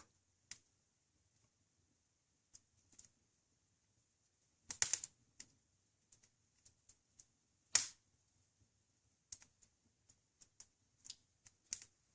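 Wood fire crackling in an open fireplace: irregular, scattered pops and snaps, with two louder cracks about five and eight seconds in.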